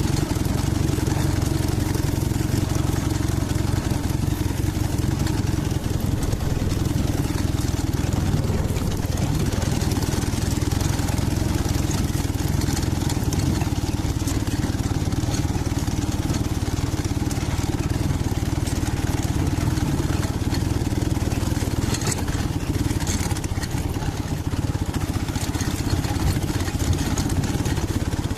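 Dnepr MT-11 motorcycle's flat-twin engine running steadily, with a few short high clicks about three quarters of the way through.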